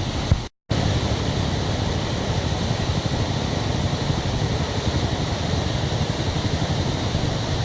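Waterfall rushing in a steady roar of falling water. The sound cuts out for a moment about half a second in, then carries on unchanged.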